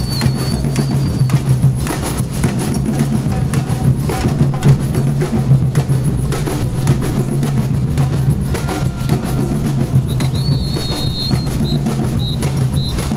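A group of drums being beaten together in a dense, rapid rhythm. A high whistle-like tone sounds at the very start and again about ten seconds in, ending in a few short toots.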